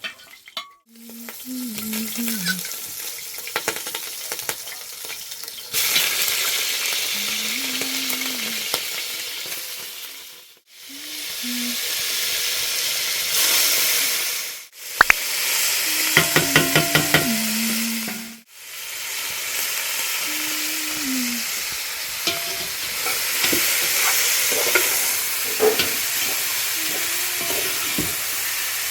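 Meat frying and sizzling in hot oil in a pot, stirred now and then, with a few sharp scrapes about halfway through. The sizzle breaks off abruptly three or four times.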